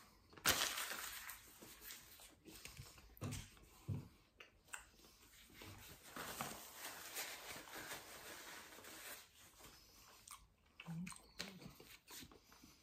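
Faint chewing of a mouthful of sandwich bun, with short clicks and soft rustles as the sandwich is handled.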